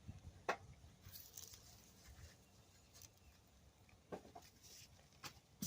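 Faint, scattered soft rustles and ticks of hands sifting and crumbling potting soil in a container.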